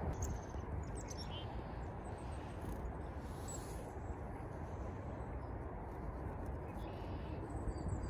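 Small birds chirping faintly in a few short, high calls, near the start, around the middle and near the end, over a steady low background rumble.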